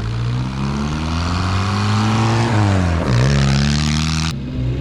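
Reliant 700 cc four-cylinder engine of a homebuilt special accelerating: the revs climb, drop briefly about three seconds in as at a gear change, and climb again, then the sound cuts off suddenly near the end.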